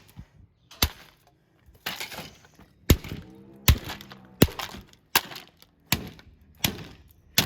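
Plastic housing of a Lenco 250 mm ceiling exhaust fan being smashed with repeated blows, about one every three-quarters of a second: sharp cracking impacts with bits of plastic breaking and rattling.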